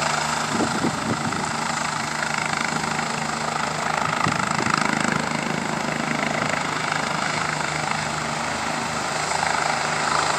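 Helicopter running with a steady, unchanging drone: a low hum under a constant hiss.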